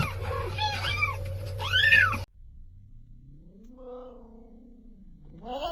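Cats meowing: several short, arching meows in the first two seconds, then, after an abrupt cut, one long, low, drawn-out yowl that rises and falls, with another meow starting at the very end.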